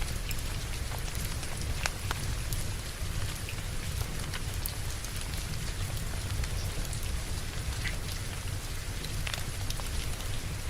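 Steady rain falling, with scattered sharp crackles of a wood fire and a low rumble underneath.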